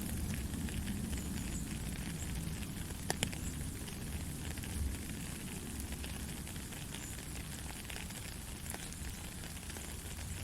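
Steady rain falling, a dense patter of drops over a low rumble, with one sharper tick about three seconds in.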